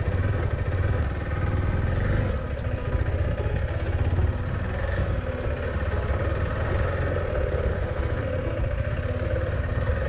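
KTM 390 Adventure's single-cylinder engine running steadily while the motorcycle is ridden, with no revving up or down.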